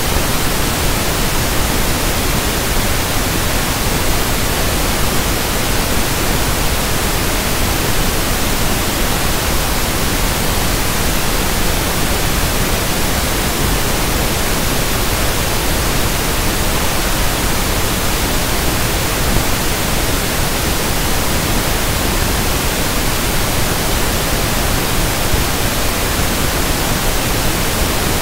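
Steady synthetic pink noise (1/f noise): an even, unchanging hiss across the whole range, with no pitch and no events.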